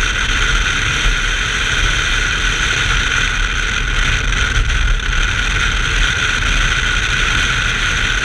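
1990 BMW 325i's straight-six engine running hard at a steady pitch with wind and road noise on track, heard from the car.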